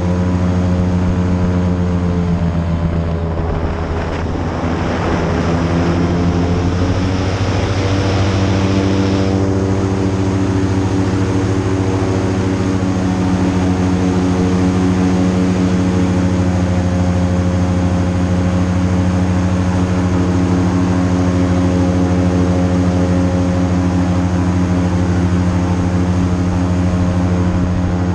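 Airboat engine driving its open propeller, running steadily at speed. The note dips and shifts about four seconds in, with a rush of hiss for several seconds, then settles back to a steady drone.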